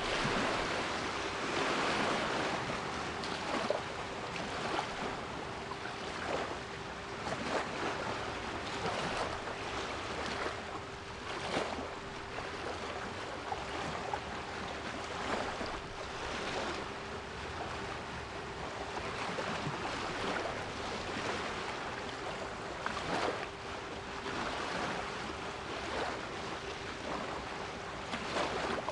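Sea waves washing ashore, a steady rush of surf with brief swells now and then, under a thin steady 396 Hz pure tone.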